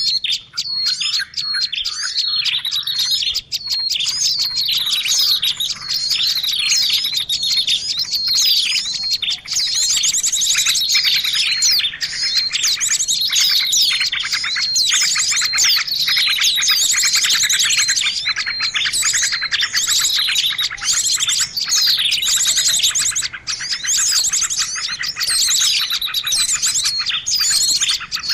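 A dense, noisy chorus of many small birds chirping, trilling and calling over one another without pause: a bird-luring recording meant to draw in birds of many kinds.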